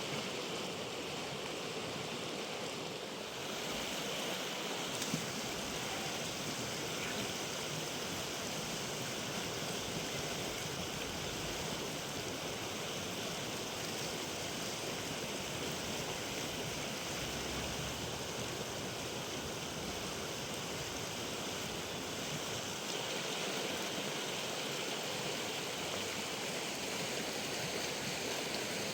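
River water rushing and splashing steadily over rocks, with one brief click about five seconds in.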